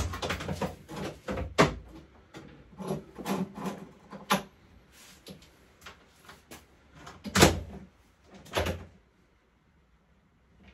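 Tools and metal parts being handled on a workbench: a string of knocks and clatters, the loudest about seven and a half seconds in and another about a second later.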